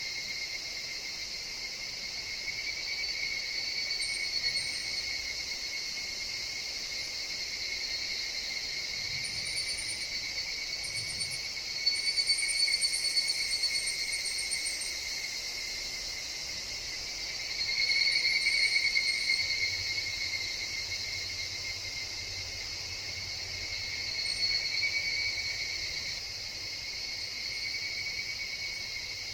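Higurashi (evening cicadas) singing in chorus: a steady, high ringing drone that swells louder three times, a few seconds each, over faint scattered high chirps.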